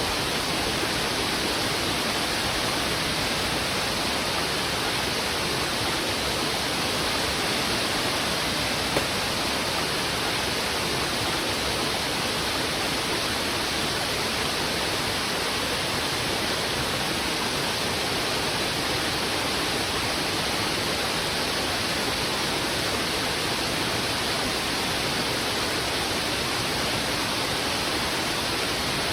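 A fast, heavy river rushing over rocks: a steady, dense roar of white water with no let-up.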